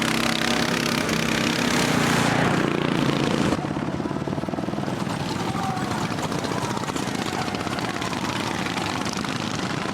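Racing lawnmower engines running at speed. The sound drops suddenly about a third of the way in to a quieter, steady engine drone.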